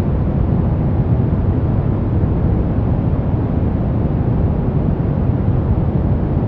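Steady synthetic noise from a relaxation white-noise track: an even, unchanging rush that is deep rather than hissy, with most of its weight low down and little in the highs.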